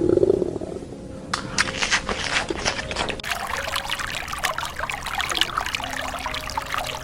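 An animal's low roar tails off in the first half-second, then water trickles and splashes in a dense, crackling patter from about a second in.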